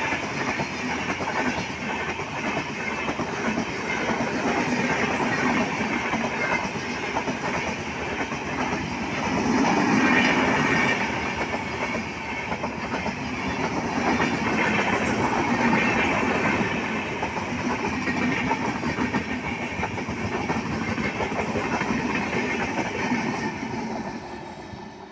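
Express passenger train coaches running through a station at speed: a steady rush of steel wheels on rail with a rhythmic clickety-clack over the rail joints. The sound falls away sharply near the end as the last coach passes.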